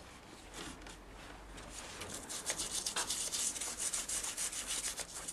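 A brush scrubbing degreaser onto the motorcycle engine's metal parts: quick, repeated scratchy strokes, faint at first and louder from about two seconds in.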